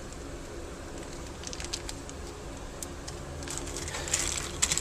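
Small metal coil springs and plastic baggies being handled at a workbench: light scattered clicks and crinkly rustling, busier near the end, over a faint steady hum.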